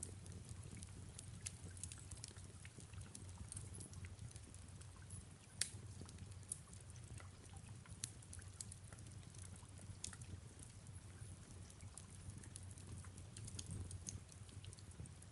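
Faint fireplace crackling, with scattered small pops and one sharper pop a little over five seconds in, over a low, steady bed of soft rain.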